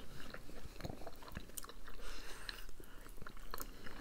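Two people biting into and chewing khinkali, Georgian meat dumplings full of broth: moist mouth sounds with many small, irregular clicks.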